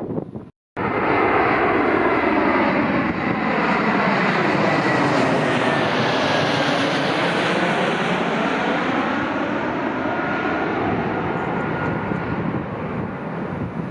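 Jet airliner's engines passing close by: loud engine noise with a high whine that slowly drops in pitch as the aircraft goes past, starting abruptly just after a brief gap of silence.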